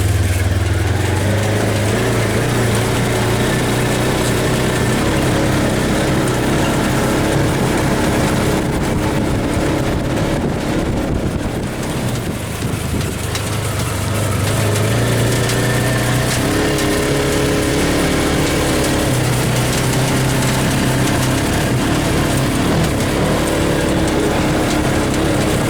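Polaris RZR side-by-side's engine running steadily as it drives; it eases off about halfway through and picks up again a few seconds later.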